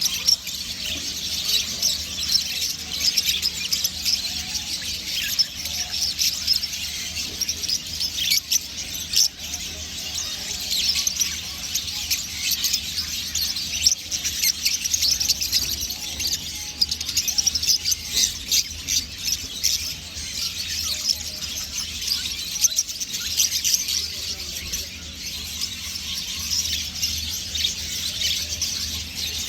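A dense chorus of many small caged birds chirping and squealing at once, the calls overlapping without a break, over a faint steady low hum.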